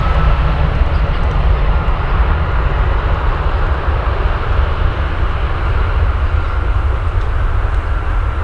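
Jet aircraft engines running loudly and steadily, a heavy rumble under a faint high turbine whine.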